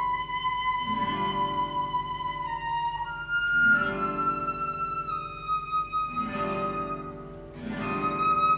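Flute and guitar duo playing a slow classical piece: the flute holds long sustained notes, stepping slightly down in pitch, over guitar chords that sound afresh every couple of seconds.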